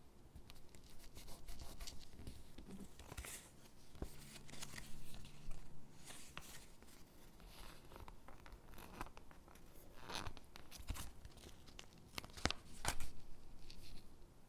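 Stickers being peeled from their backing sheet and pressed onto paper gingerbread cutouts: soft peeling rips, paper rustles and light taps. Several peels stand out above the rest, the loudest near the end.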